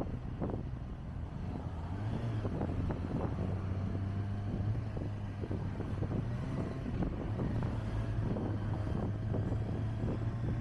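Kawasaki Ninja ZX-25R's inline-four engine running at a steady cruise while riding, with wind buffeting the microphone.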